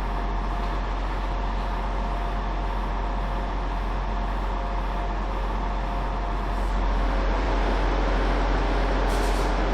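Diesel train engine idling steadily, with a deep hum and a few held tones, growing slightly louder about seven seconds in.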